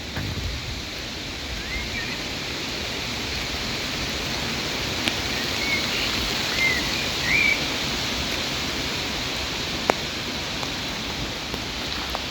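Steady hiss of rain falling. A few short bird chirps come between about two and eight seconds in, and a couple of sharp ticks, like drops striking something close by, land near the middle and about ten seconds in.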